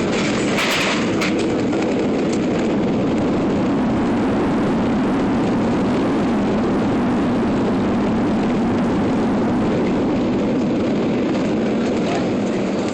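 Boeing 737 landing, heard from inside the passenger cabin: a steady, loud roar of jet engines and rushing air, with a brief rattle about a second in.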